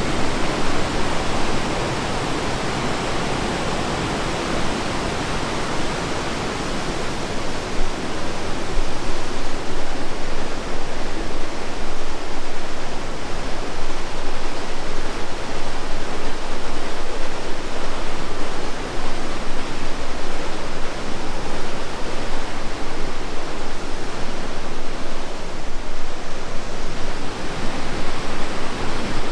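Rushing river water in a gorge: a steady, even rush that gets somewhat louder about eight seconds in.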